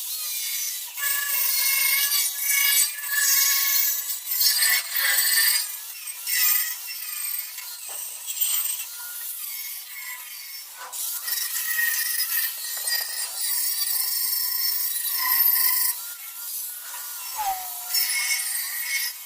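Handheld power abrasive tool grinding down steel welds. A continuous gritty hiss, with the motor's pitch wavering and dipping as it is pressed on and lifted off the metal.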